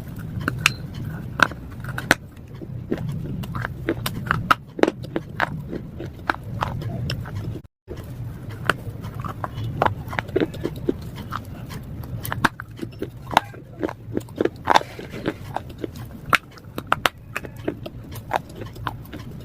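Crisp cracks and crunches of slate pencils being bitten and chewed, irregular sharp snaps several times a second, over a steady low hum.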